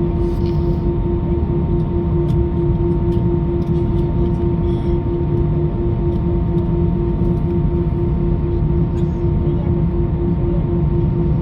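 Airbus A319 jet engines running steadily at low power while taxiing: a continuous drone with a pulsing hum and a low rumble.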